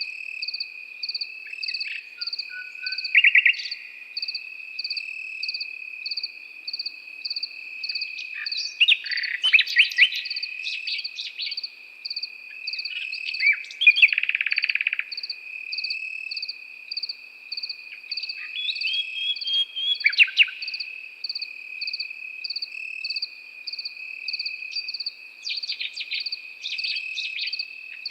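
Common nightingale singing in short varied phrases over a continuous chorus of crickets: one insect trills steadily while another chirps at an even pulse.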